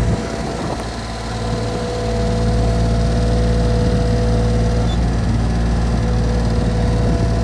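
Diesel engine of a 2002 Bobcat 553 skid steer loader running steadily, with a brief drop in level about a second in before it settles back.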